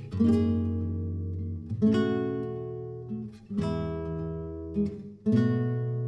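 Acoustic guitar strumming chords: four chords struck a little under two seconds apart, each left to ring and fade before the next.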